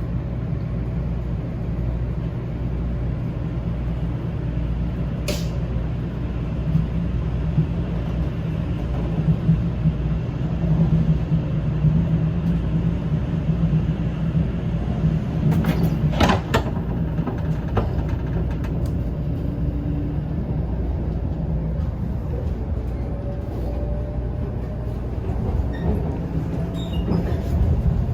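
Shinkansen train running with a steady low rumble and a few sharp clicks. In the last third a faint whine slowly rises in pitch as the train gathers speed.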